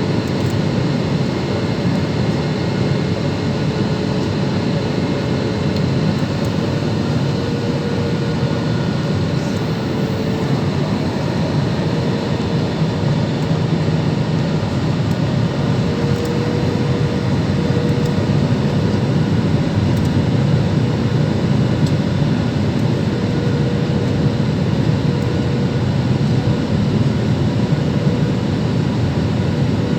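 Boeing airliner's jet engines and airflow: a steady rushing drone with a faint steady hum, getting slightly louder in the second half.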